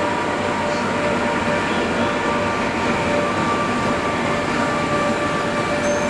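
Locomotive-hauled passenger train moving along the platform road: a steady rumble of engine and wheels with a few faint steady high tones through it.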